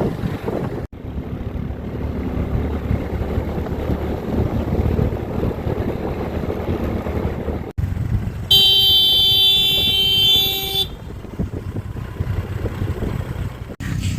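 Steady rumbling road-vehicle noise, with one vehicle horn blast lasting about two seconds just past the middle; the horn is the loudest sound. The sound cuts out briefly three times.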